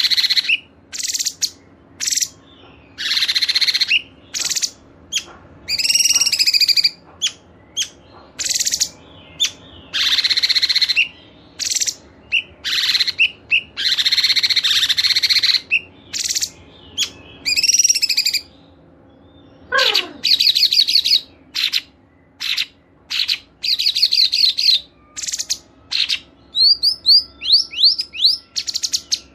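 A mix of cage songbirds calling and singing: repeated harsh, chattering phrases about a second long, broken up by short, sharp chips, with a falling whistle about two-thirds of the way in and a quick run of rising notes near the end.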